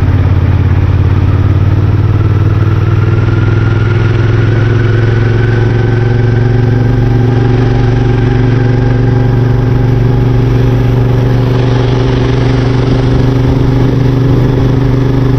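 CFMoto 450SR's parallel-twin engine running steadily while riding, with a faint whine that slowly rises in pitch over the first half, under wind and rain noise.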